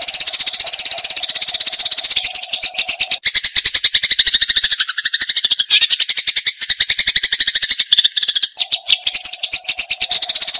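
Eurasian tree sparrows (burung gereja) chattering in a fight: a fast, unbroken run of chirps. In the middle stretch the chatter drops lower in pitch before returning to the higher run.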